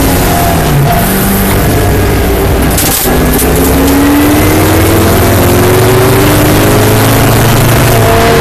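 TVR Griffith's Ford V8 racing engine heard from the cockpit. Its pitch falls as the car slows for a corner, breaks briefly about three seconds in, then rises steadily under hard acceleration out of the bend, over loud wind and road noise.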